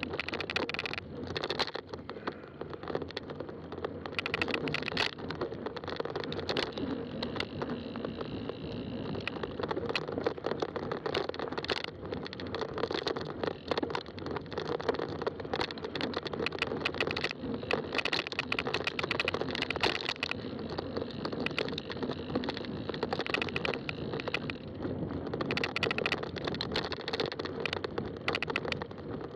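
Fat-tire mountain bike being ridden over a rough trail: continuous tyre noise with many small rattles and knocks from the bike.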